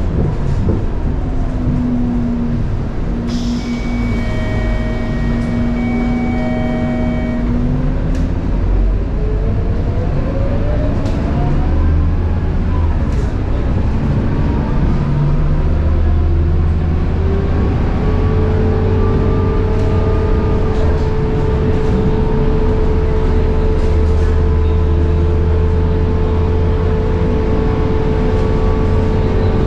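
Scania K230UB bus's ZF Ecomat 6HP504C six-speed automatic gearbox whining under the running diesel engine as the bus accelerates: the whine rises in pitch for several seconds, then a high whine holds steady through the second half.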